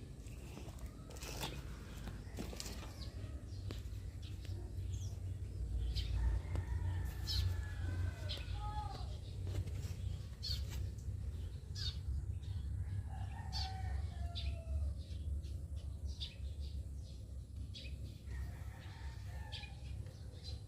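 Outdoor ambience with birds giving a few short calls over a steady low rumble, with scattered clicks.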